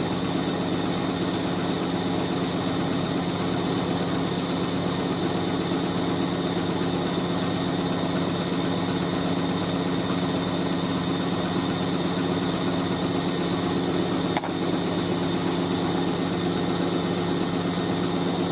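Hoover A3060 Electronic 1100 washing machine spinning a load of bedding: a steady motor hum at a constant pitch, with one brief click about fourteen seconds in.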